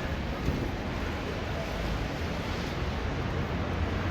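Steady city street noise: a low traffic rumble under an even hiss, with no single sound standing out.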